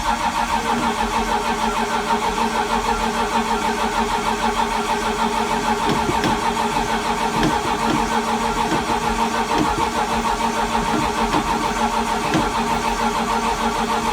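Starter cranking the turbocharged foxbody Mustang's engine for about fourteen seconds without it firing: a steady whine with an even, pulsing beat that cuts off right at the end. This is a cold-start attempt on an ethanol-fuelled, low-compression motor, with brake cleaner sprayed into the turbo as a starting aid, and it does not catch.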